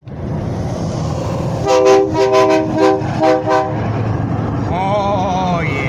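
A multi-tone air horn honked in several short blasts over about two seconds, over steady highway road and tyre noise from moving traffic.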